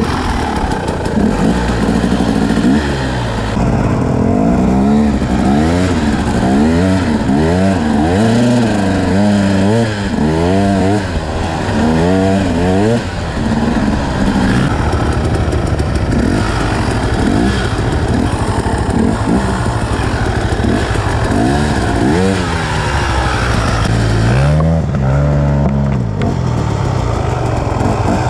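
KTM EXC 250 enduro motorcycle's engine under way, the throttle opened and closed so the revs climb and drop about once a second through much of it, with a steadier stretch in the middle.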